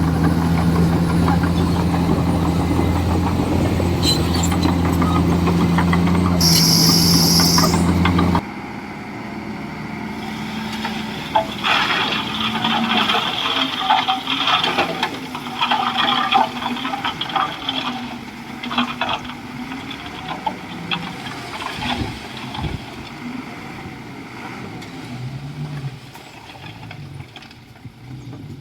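Komatsu D41E bulldozer's diesel engine running with a steady drone, and a brief hiss shortly before the sound cuts off suddenly. What follows is quieter engine sound with a wavering pitch and many short clanks and squeaks.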